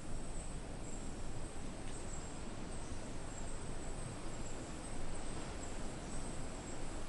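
Night insect chorus in rainforest: a steady high-pitched trill from crickets or similar insects over a constant background hiss.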